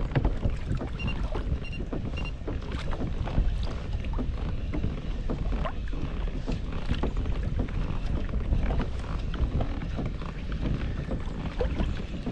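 Wind rumbling on the microphone and water moving against a small plastic kayak, with many small clicks and knocks of handling. Three short high beeps come in a row about a second in.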